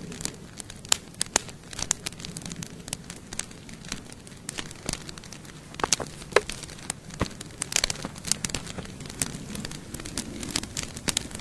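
Wood campfire crackling: irregular sharp pops and snaps, a few much louder than the rest, over a low steady rush of flame.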